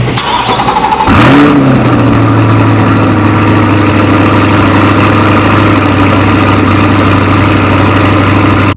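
Car engine catching about a second in, its revs flaring briefly and then settling into a steady idle.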